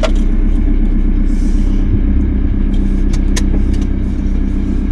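A van on the move: a steady low engine and road rumble, with a couple of light clicks a little past halfway.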